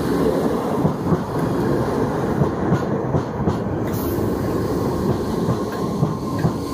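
Merseyrail Class 507 electric multiple unit passing close by over a level crossing: a steady rumble of wheels on rail with a few sharper clacks as the bogies cross rail joints.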